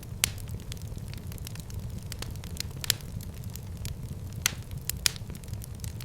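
Fire burning in a fireplace, crackling with irregular sharp pops over a steady low rumble; the loudest pops come just after the start, about three seconds in, and twice near the end.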